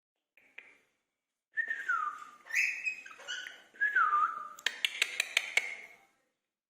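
Indian ringneck parrot whistling: two swooping whistles that dip and climb back, with shorter whistled notes between them, then a quick run of sharp clicks near the end.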